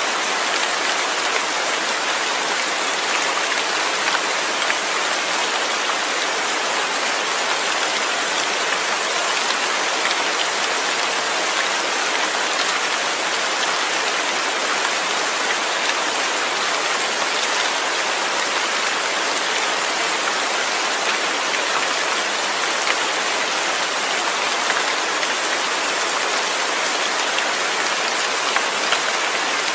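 Steady rain falling and pattering on a surface, an even hiss of many drops with no letup.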